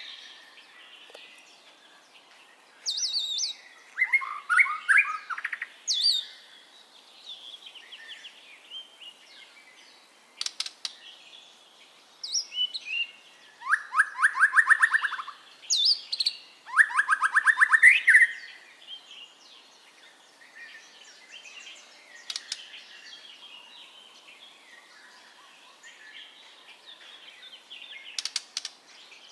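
White-rumped shama (murai batu) singing a varied song of clear whistles, clicks and rapid trilled runs. The loudest phrases come in groups about 3, 14 and 17 seconds in, with quieter phrases between.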